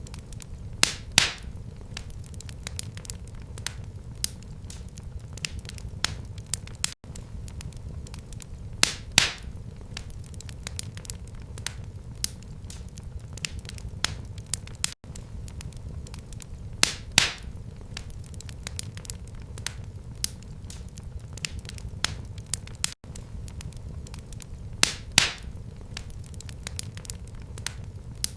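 Wood fire crackling in a fireplace: a low steady rumble of flame with constant small crackles and a loud sharp pop about every eight seconds.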